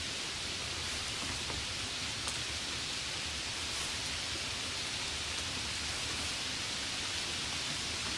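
Steady, even hiss, strongest in the treble, with a faint tick about two seconds in.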